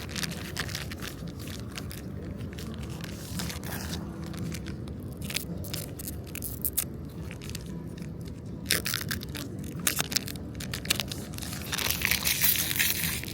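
Foil booster packs of One Piece trading cards being torn open and handled: irregular crinkling and tearing crackles over a steady low background hum, with louder bursts about two-thirds of the way through and near the end.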